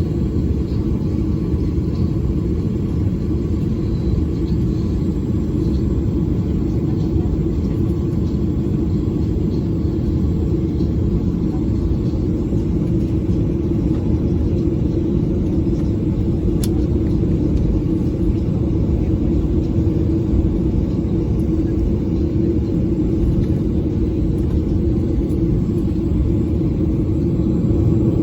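Steady low rumble of a Boeing 737's engines and airflow heard from inside the passenger cabin, growing slightly louder near the end.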